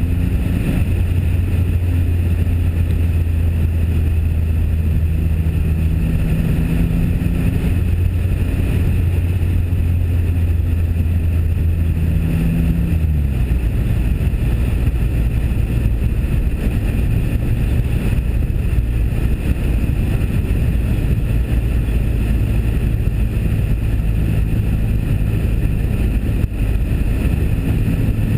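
1997 Pontiac Firebird's 3.8-litre V6 running steadily at cruising speed, its engine note shifting about halfway through, under heavy wind rumble on a cotton-covered GoPro microphone.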